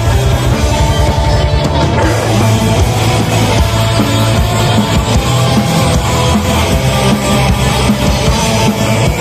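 Black metal band playing live and loud, with distorted electric guitars and bass over a drum kit in a dense, unbroken wall of sound.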